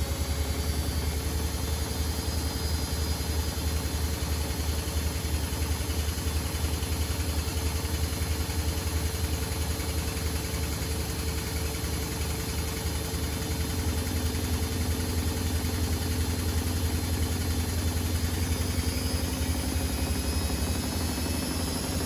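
Privileg Sensation 952 S top-loading washing machine running, a steady low hum and drone from its motor and drum, with faint tones that slowly shift in pitch and one that rises in the last third.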